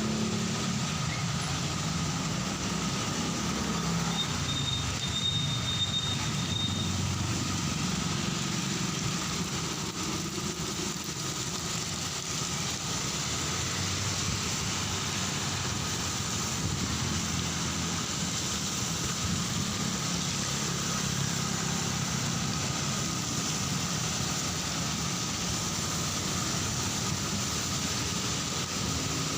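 Heavy rain falling steadily on a city street, with the low rumble of road traffic running underneath. A faint high thin whine sounds for a few seconds about four seconds in.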